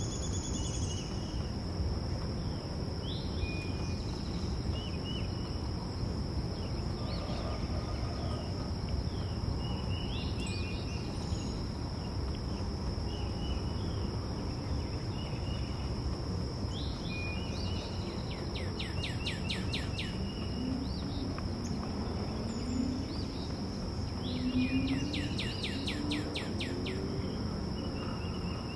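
Backyard songbirds giving short chirps, with two rapid trills in the second half, over an unbroken high insect drone like crickets and a low background rumble.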